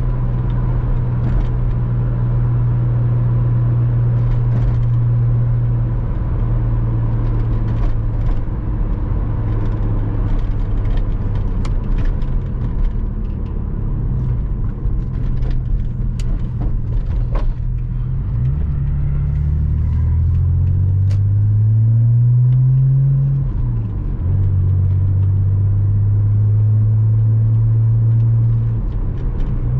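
Porsche Boxster 986's flat-six engine pulling along at a steady cruise. A little past halfway the revs climb twice in quick succession as the car accelerates, drop back briefly, and then settle into a steady cruise again.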